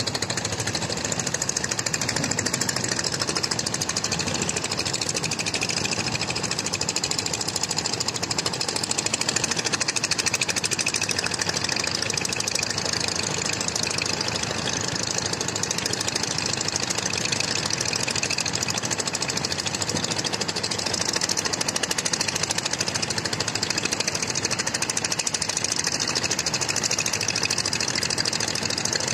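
An engine running steadily with a fast, even knocking rattle.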